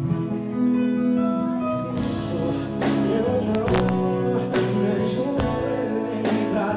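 A live band plays during a sound check, with guitar and sustained chords and perhaps some singing. The drums come in about two seconds in and keep a steady beat.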